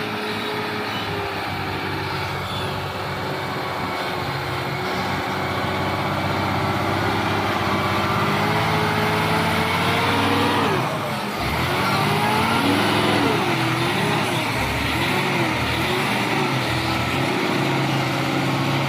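Heavy diesel truck engine labouring under load, its note fairly steady at first. About halfway through, after a brief dip, the revs rise and fall several times in quick swings.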